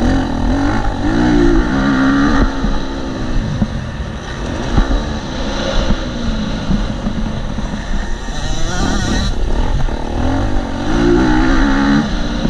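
KTM SX-F 250 motocross bike's four-stroke single-cylinder engine under hard riding, its pitch repeatedly rising as the throttle opens and dropping back as it shifts or closes.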